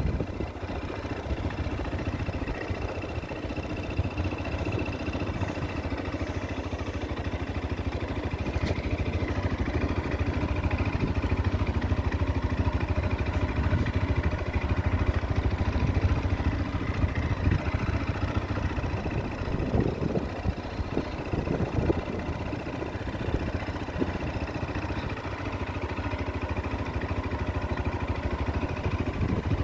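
Motorcycle engine running at low revs, rising and falling a little in loudness.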